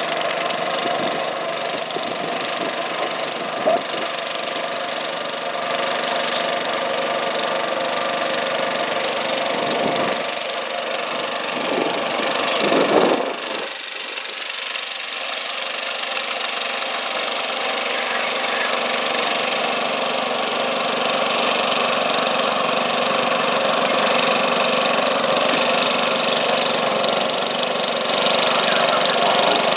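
Garden tractor pulling engine running, its revs climbing and then dropping sharply about thirteen seconds in.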